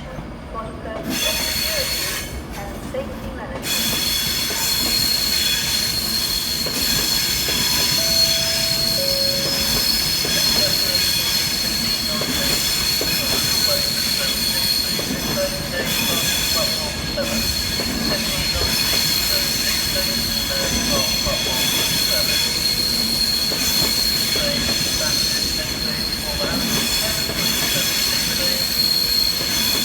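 Class 390 Pendolino electric train departing, really loud, with a steady high-pitched squeal from its wheels on the rails. The noise builds up about a second in and becomes louder about four seconds in.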